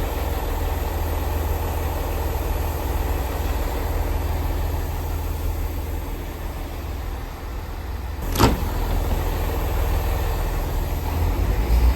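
Diesel train engine running steadily with a low rumble, and one sharp knock about eight seconds in.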